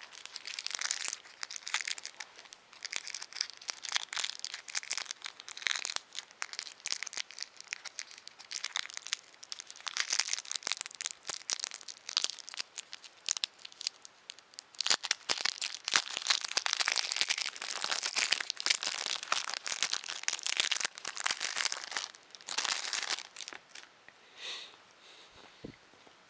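Plastic packaging crinkling and crackling in irregular bursts, with some tearing, as the two small bearings are unwrapped by hand; the handling dies down near the end.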